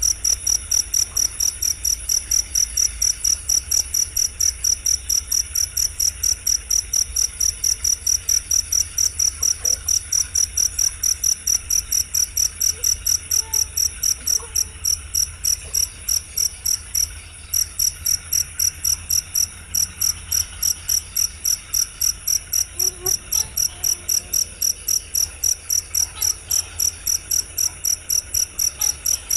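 Cricket chirping in a steady, fast rhythm of about three high-pitched pulses a second, with a brief pause about halfway through.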